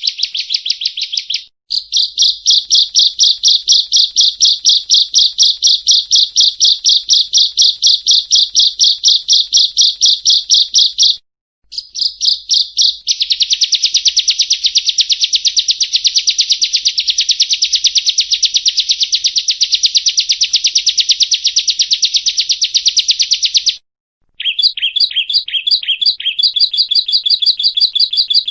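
Prinia song: long, loud trills of rapidly repeated high notes. Short breaks come about a second and a half in, about eleven seconds in and near the end, and after the last break the phrase changes to choppier, separated notes.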